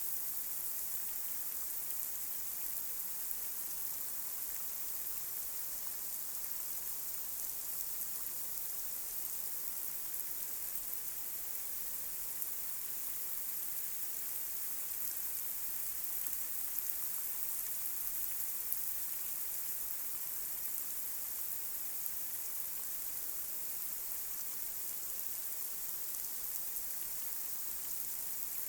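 Light rain falling on a street: a steady, high hiss of rain with faint scattered drop ticks.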